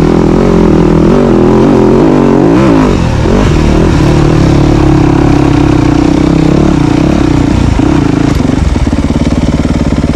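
Dirt bike engine running close by, its pitch rising and falling for the first few seconds, then holding steady, and dropping to idle about eight seconds in.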